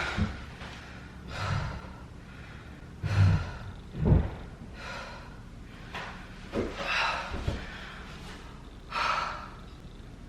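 A woman breathing hard after an exercise interval, with loud gasping breaths in and out every second or two.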